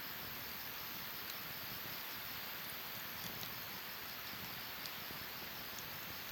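Wood fire burning in a Snow Peak fire stand: a steady low rush with small, sparse crackles and pops scattered through it.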